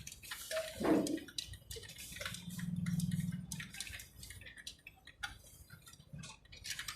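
Scattered light clicks and taps, with a low hum that swells and fades about three seconds in.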